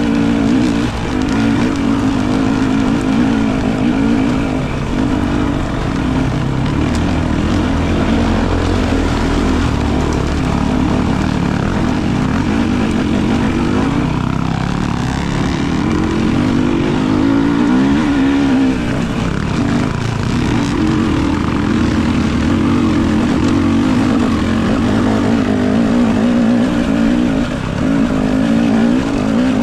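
Enduro dirt bike engine running under constantly changing throttle, its pitch rising and falling again and again.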